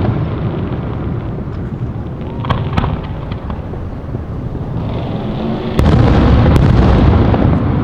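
Fireworks going off: continuous rumbling booms with a few sharp crackling pops about two and a half to three and a half seconds in, then a sudden heavy boom near six seconds after which the rumble stays louder.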